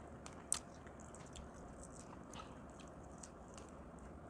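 Faint eating sounds from shell-on shrimp being handled and eaten: scattered soft clicks and crackles, with one sharper click about half a second in.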